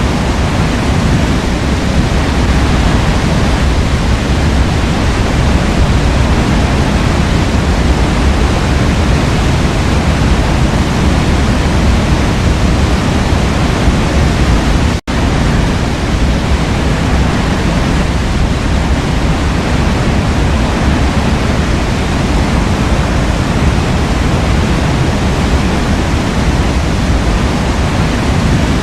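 Waterfall rushing: a steady, even roar of falling water, heaviest in the low end, broken by a split-second dropout about halfway through.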